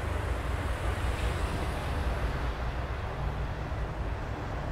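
CN freight train of double-stacked container cars rolling past, a steady low rumble.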